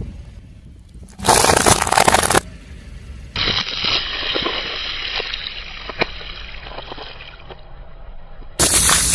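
A car tyre crushing objects: a loud crunch about a second in and another near the end. Between them, several seconds of liquid sloshing and fizzing with scattered small crackles.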